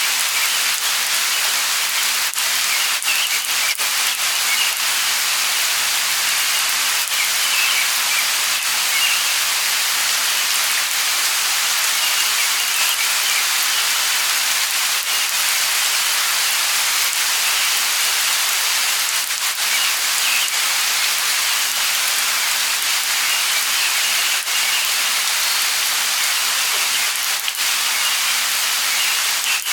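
Light rain falling steadily, with scattered sharper drop ticks and faint bird chirps now and then.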